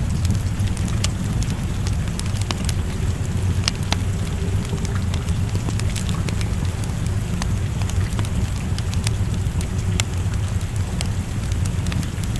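Wood fire crackling, with irregular sharp pops, over a steady low rush of rain.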